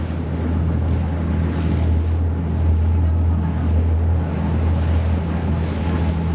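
Tour boat's engine running steadily with a low drone, under a rush of wind and water noise.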